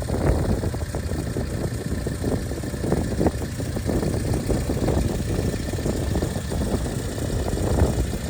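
Subaru Sambar kei van's small 660 cc four-cylinder engine idling steadily.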